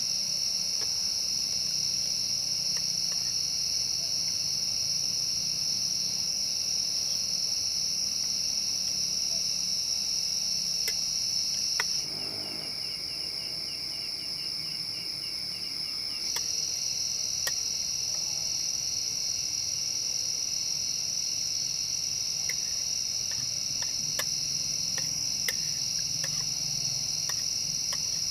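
Steady, high-pitched chorus of crickets in the forest. It drops away for about four seconds a little before halfway, leaving a softer, faster trill, then comes back. Scattered faint clicks are heard throughout.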